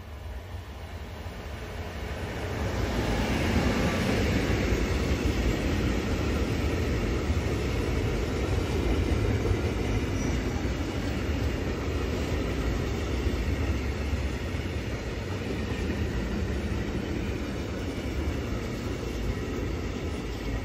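Electric freight locomotive approaching and passing, then a long train of loaded tank wagons rolling steadily by on the rails. The sound grows over the first three seconds as the locomotive nears, then holds steady as the wagons go past.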